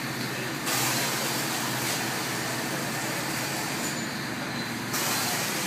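Steady traffic-like noise with a low hum. A louder hiss comes in abruptly under a second in and cuts out near the end.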